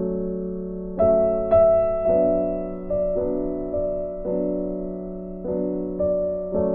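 Soft, slow piano music: single notes and chords struck every half second to a second, each dying away.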